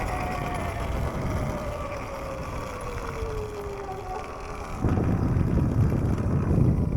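Sur-Ron electric dirt bike riding, its motor whine falling steadily in pitch as the bike slows, over tyre and wind noise. About five seconds in, a louder low rumble sets in.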